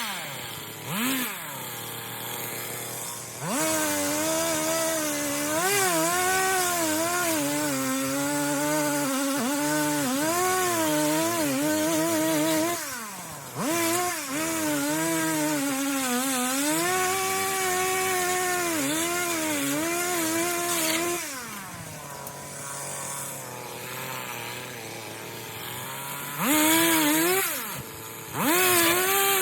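Stihl 026 Pro two-stroke chainsaw cutting a fallen tree, its engine note wavering up and down as the chain bites into the wood under load; its chain is dull. About two-thirds through it drops back to idle, then is revved twice briefly near the end.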